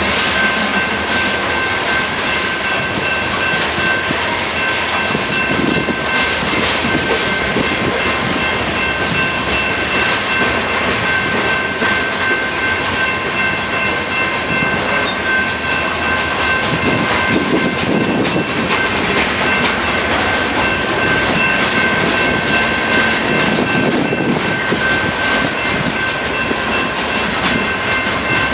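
Freight cars of a loaded frac sand unit train rolling past: a steady rumble and clatter of wheels on rail, with a steady high-pitched ringing over it.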